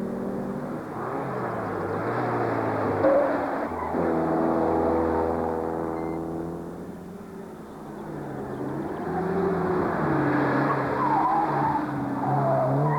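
Classic rally cars running hard on a closed-road stage, their engines revving and passing by. The engine note rises and falls, and a new engine note takes over about four seconds in.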